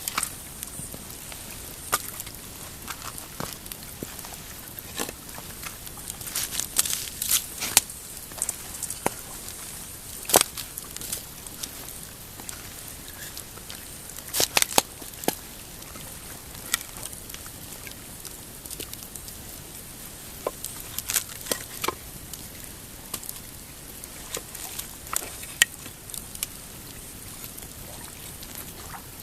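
Pine campfire crackling, with irregular sharp pops over a steady hiss. The pops come in small flurries, the loudest about a third of the way in.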